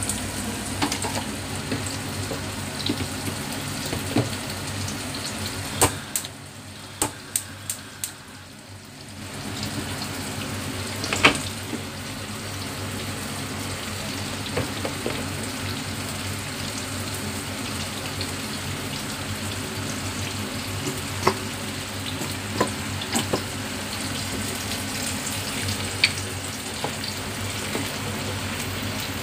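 Pork spareribs frying in their sauce in a pan, a steady sizzle with scattered pops. The sizzle drops for a few seconds partway through, with several sharp clicks, and one louder knock comes shortly after.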